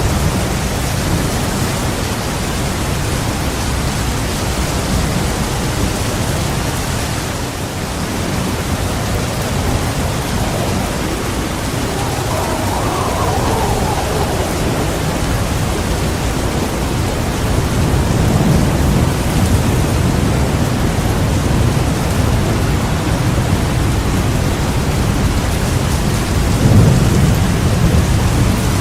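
Heavy rain pouring steadily with rolling thunder; the rumbles swell about two-thirds of the way in and peak loudest near the end.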